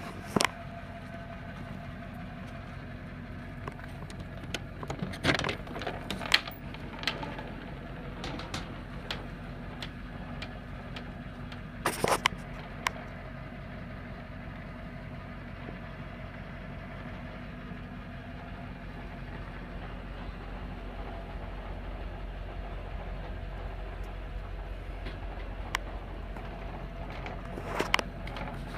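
2002 Chevy pickup's diesel engine idling steadily, with a few sharp knocks or clicks over it.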